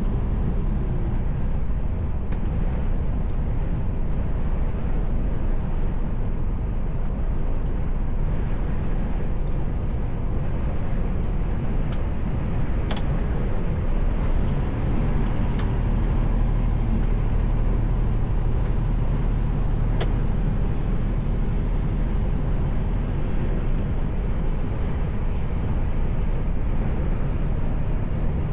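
Steady rumble of a Mercedes Actros L lorry's diesel engine and road noise, heard from inside the cab while driving. A few light clicks sound over it.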